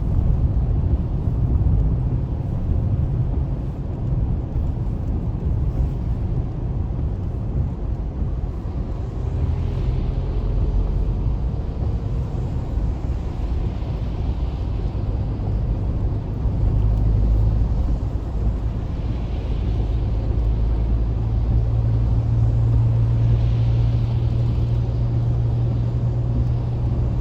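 Car road noise heard from inside the cabin while driving on a wet road: a steady low rumble of engine and tyres, with a faint hiss that swells every few seconds.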